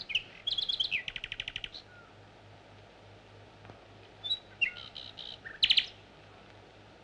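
A songbird singing: a few short high chirps, then a rapid trill of evenly spaced notes about a second in. Another run of chirps and a short trill follows from about four to six seconds in.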